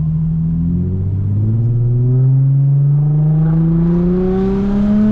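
Infiniti G35's 3.5-litre V6 with its muffler and resonator deleted, accelerating hard. The exhaust note climbs steadily in pitch for several seconds as the revs rise.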